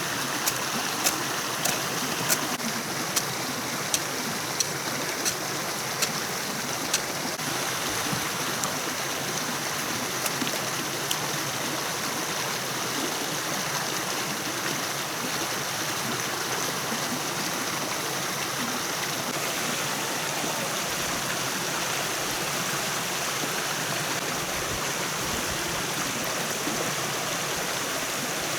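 Steady rush of running water. In the first seven seconds a string of sharp ticks sounds about every two-thirds of a second, with a few fainter ones after.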